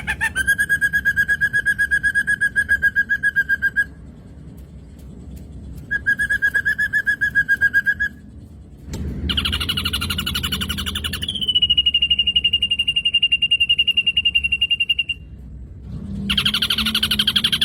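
Black drongo song: rapid trilled whistles held at one pitch in two runs of a few seconds, then a higher, buzzier trill and a long steady high trill, with another buzzy trill near the end.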